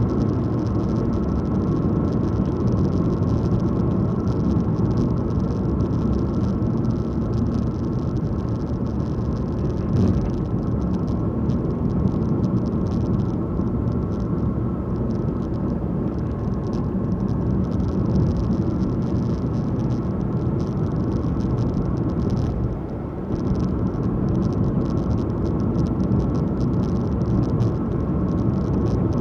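Car driving along a country road: steady engine and tyre noise, with a short dip in level about three quarters of the way through.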